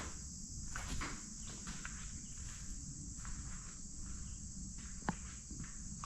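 Steady high-pitched chorus of crickets, with soft footsteps and one sharp click about five seconds in.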